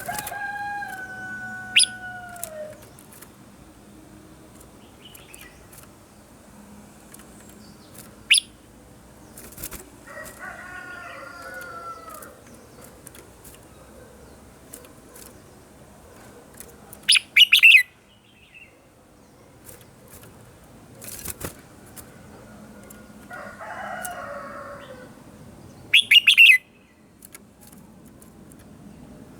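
Red-whiskered bulbul singing three short phrases of falling, slurred whistles, spaced several seconds apart. Four loud, sharp bursts come in between the phrases.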